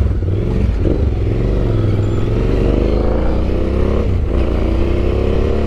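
Yamaha Ténéré 700's parallel-twin engine running under way, its pitch dipping and then climbing slowly as it pulls, with a brief break about four seconds in before it climbs again, over a heavy low rumble.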